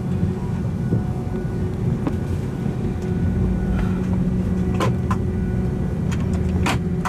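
Steady low hum inside an Airbus A319 passenger cabin, the sound of the parked airliner's air supply and systems running, with a few short sharp clicks in the second half.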